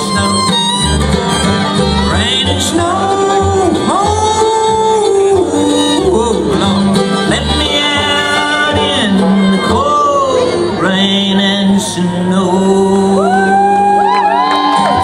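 A bluegrass band playing with fiddle, banjo and singing, over a steady pulsing bass line.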